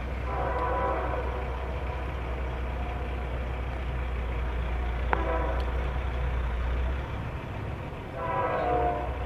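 Nathan K5H five-chime air horn on a Norfolk Southern SD70M locomotive sounding several blasts, a long one at the start, a shorter one about five seconds in and another near the end, over the steady low rumble of the passing diesel train, which drops away about seven seconds in.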